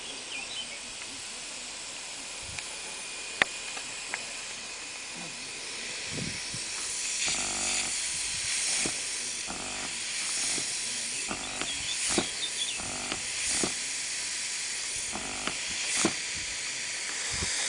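Refrigerator-compressor air rig hissing steadily, with a few sharp clicks early on. From about seven seconds in come repeated short pulses of air and clicks, roughly one a second, as the small pneumatic piston cycles.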